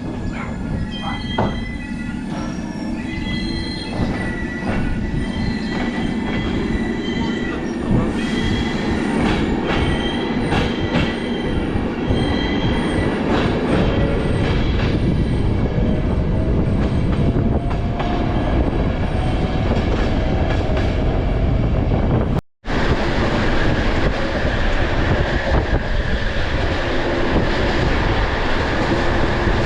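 Passenger train running along the line, heard on board: wheels squealing with steady high-pitched tones, clicks from the rail joints, and a hum that slowly rises in pitch. About 22 seconds in, after a cut, a denser, rushing running noise.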